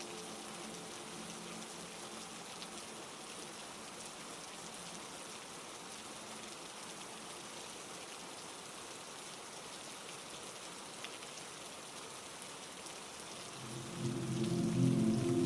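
Steady heavy rain, an even hiss of falling drops. Near the end, a low sustained humming tone swells in and grows louder over the rain.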